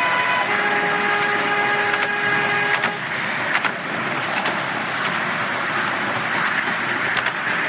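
A miniature railway locomotive's whistle sounds a steady note, stepping down to a lower note just after the start and stopping about three seconds in. Over it and after it the train runs on with a steady rushing noise and occasional sharp clicks.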